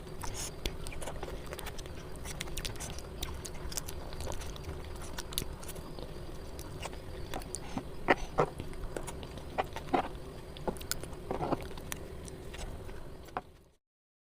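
Close-miked eating sounds: chewing with short wet mouth clicks and smacks, over a steady background hum, stopping abruptly near the end.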